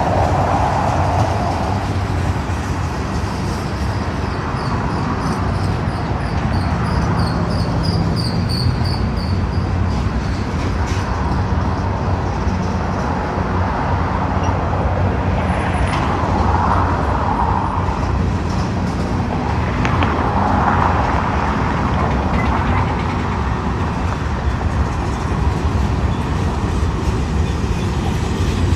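Union Pacific manifest freight train rolling past: a steady rumble of cars on the rails, with a louder mid-pitched swell twice in the second half.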